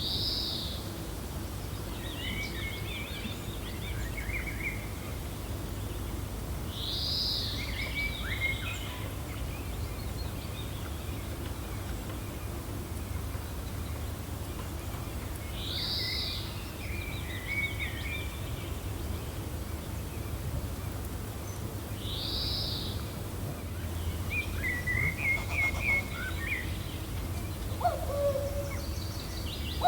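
Songbirds calling over a steady low wind rumble: one short, arching high call repeats every seven to nine seconds, with quicker chirping phrases in between.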